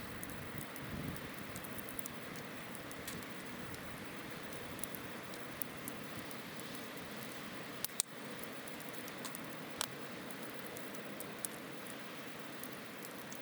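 Wood campfire burning: a steady soft hiss with scattered crackles and pops, the loudest a sharp double pop about eight seconds in.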